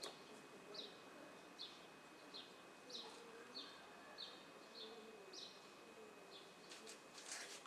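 Faint repeated short high chirps, about one every two-thirds of a second, over a faint steady high tone, with a brief louder rustle near the end.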